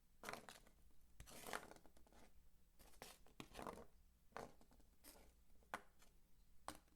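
Soap being crunched and scraped by hand: a string of quiet, dry crunching strokes at uneven intervals, a couple of them drawn out.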